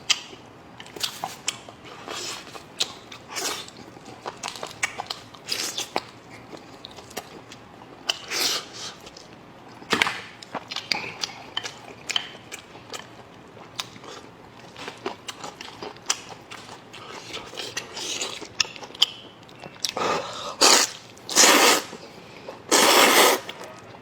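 Close-up eating noodles: wet chewing and lip smacks, with three longer, louder slurps near the end.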